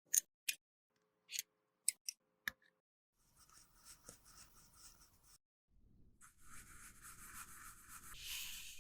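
A few light clicks and taps, then a tool scraping and rubbing against makeup product from about three seconds in, with a brief pause partway.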